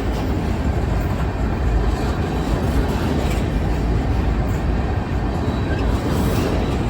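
Covered hopper grain cars of a long freight train rolling past, a steady rumble of wheels on rail.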